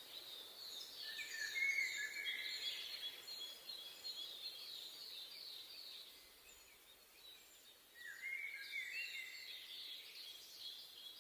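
Forest songbirds singing: rapid series of short, high, falling chirps in two bouts, one early and one near the end, with a dip between them. Faint steady hiss of forest ambience underneath.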